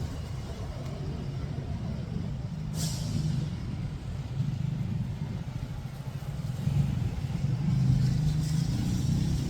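City street traffic: engines of passing cars and trucks running as a low rumble that grows louder in the second half. There is a short sharp hiss about three seconds in.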